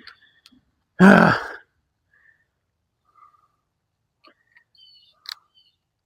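A man's short, loud sigh about a second in, then near quiet with a few faint clicks and taps around five seconds in.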